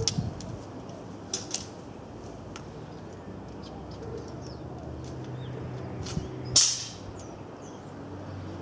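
Small birds chirping faintly, with several sharp clicks and knocks scattered through. The loudest click comes about six and a half seconds in, over a faint low hum.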